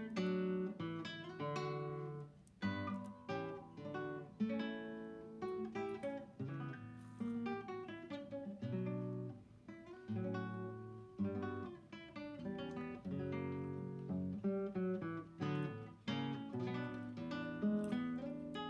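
Background music played on an acoustic guitar, a continuous run of plucked notes and chords.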